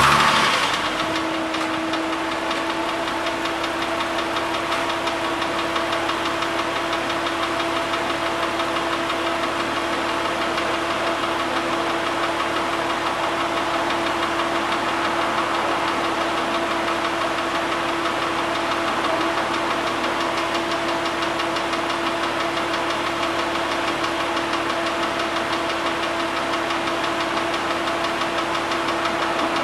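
Engine with a scored cylinder, its piston galling the cylinder wall, firing up, revving briefly, then settling within about a second into a steady idle. Through the idle there is a fast, even mechanical knocking clatter over a steady hum, the sound of the damaged cylinder.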